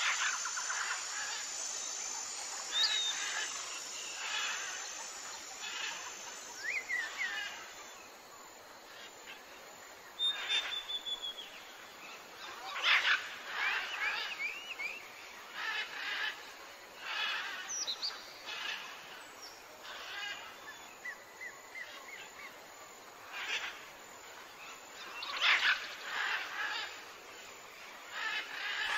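Birds chirping and calling outdoors: short chirps and whistles at irregular intervals, some gliding up or down in pitch.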